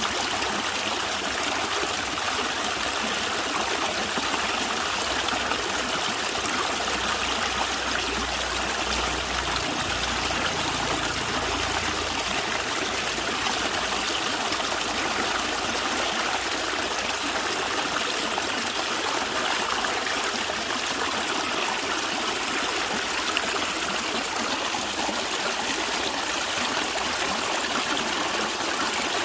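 Stream of water flowing and gurgling, a steady, even rush of running water.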